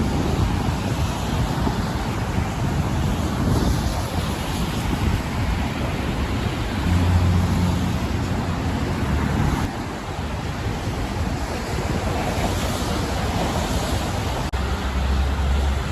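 Wind buffeting the microphone over a steady rumble of road traffic, the low rumble swelling about halfway through and again near the end.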